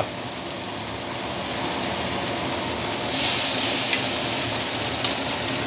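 Okra sizzling steadily in a hot wok. About three seconds in the sizzle swells louder and hissier for about a second as Shaoxing wine poured in hits the hot pan.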